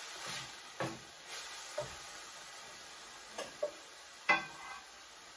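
Chopped garlic, tomato and onion sizzling steadily in a little oil in a stainless steel pan, while a spatula stirs and scrapes them. The spatula knocks against the pan several times; the loudest knock comes about four seconds in.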